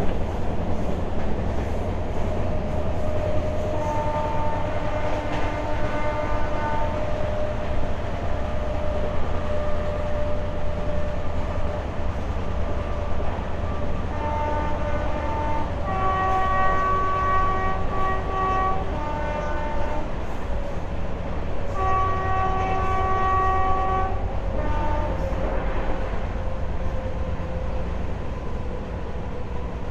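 Passenger train running steadily on the track, heard from an open coach doorway, while its horn sounds several times with a multi-note chord. A fainter blast comes about four seconds in, followed by short toots later. Two long, loud blasts come past the middle, each followed by a brief extra toot.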